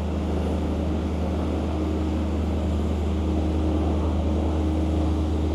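Steady low rumble of engines with a faint held droning tone in it.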